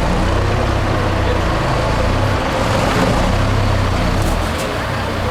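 Diesel engine of a 6x6 MAN trial truck running with a deep, steady drone, easing off near the end.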